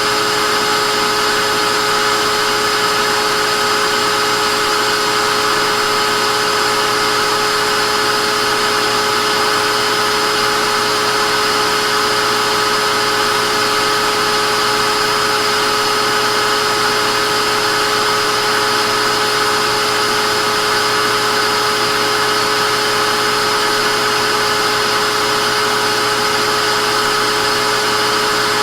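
Vacuum cleaner running steadily: an even rushing hiss with a constant motor whine, unchanging in pitch and level.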